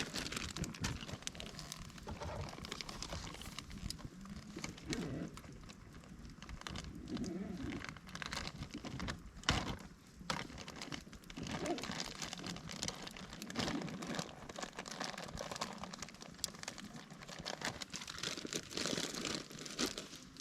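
Wood campfire crackling, with irregular snaps and pops and one sharper crack about halfway through.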